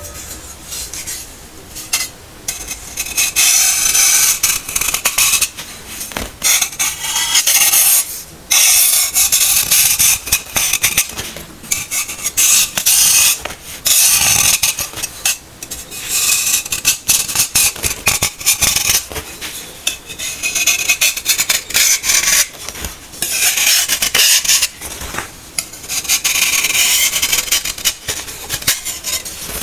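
Baking soda being crushed and ground, a dry, gritty crunching and rasping in repeated strokes of a second or two with short pauses between.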